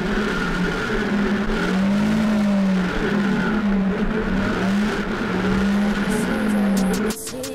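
Motorcycle engine running at road speed under a haze of wind noise, its pitch rising and falling slightly with the throttle. It cuts off abruptly near the end.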